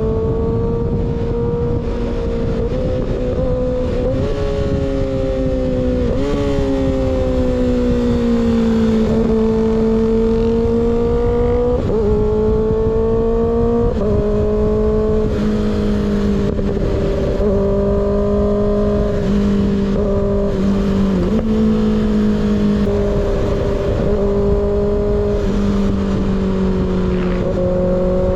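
Kawasaki ZX-6R's inline-four engine running through an unbaffled M4 GP19 slip-on exhaust while riding at cruising revs. The pitch rises and falls gently with the throttle every few seconds, over steady wind rush on the microphone.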